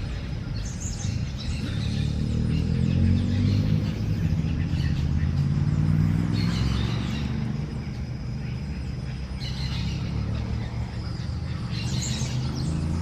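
Birds chirping in short bursts, four or so times, over a steady low rumble that swells in the middle and eases off later.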